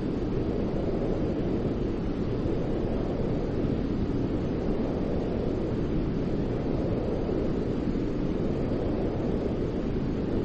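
Steady, low-pitched white noise: a deep, even rushing with most of its weight in the low end and little hiss on top.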